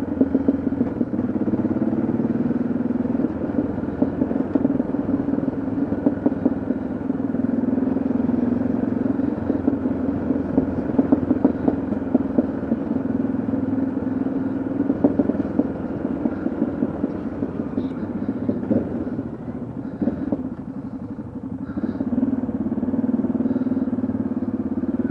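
Yamaha XT660Z Ténéré's single-cylinder engine running steadily under way, easing off briefly about twenty seconds in before picking up again.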